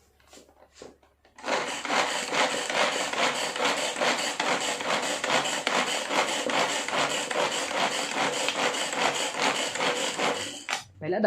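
Small electric mini chopper running, its blades spinning and grinding the contents of its bowl with a coarse, rapid rasping; it starts about a second and a half in and cuts off just before the end.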